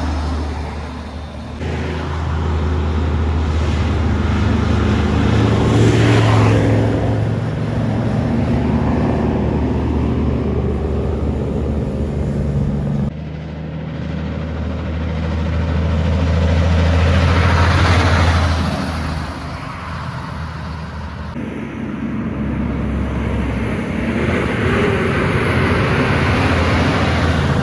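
Kenworth semi-trucks' diesel engines driving past one after another, each engine note and tyre noise swelling as the truck nears and fading as it goes. The sound changes abruptly between passes.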